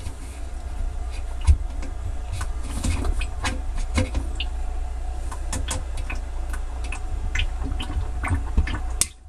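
Kenmore Elite HE3 front-load washer spinning its drum: a steady low rumble with a run of sharp clicks, a few a second, like a plastic piece being hit. The clicking comes twice per drum revolution and speeds up with spin speed. Its cause is not found; the springs, shock absorbers and belt check out fine.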